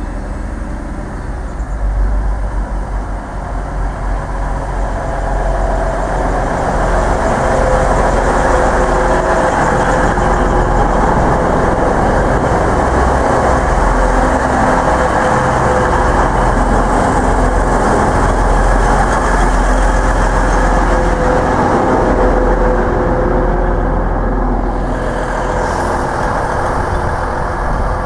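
Class 185 diesel multiple unit passing close by, its underfloor diesel engines running. The sound builds over the first few seconds, holds steady and eases a little near the end.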